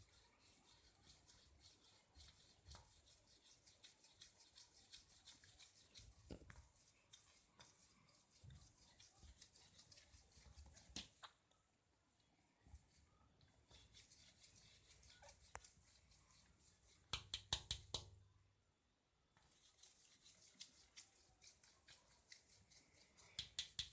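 A parrot working its beak: faint fine scratching and rapid tiny clicks, with a quick cluster of louder taps about 17 seconds in and a few more near the end.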